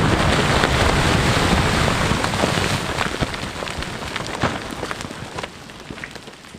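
Rock and debris from a rock blast falling back to the ground, a dense hiss of many small impacts that thins out and fades over several seconds.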